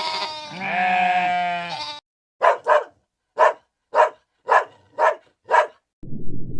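A goat bleating in a long wavering call. After a break, an animal gives seven short, sharp barks about half a second apart, the first two in quick succession. A low muffled noise starts near the end.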